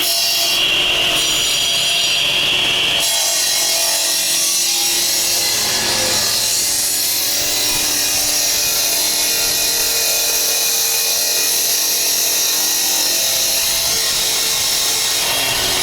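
Electric brick-cutting saw running steadily as it cuts brick, a continuous high, hissing grind; its pitch shifts about three seconds in.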